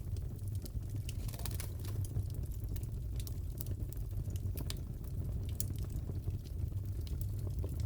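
Crackling fireplace: a steady low rumble of burning with scattered sharp pops and crackles.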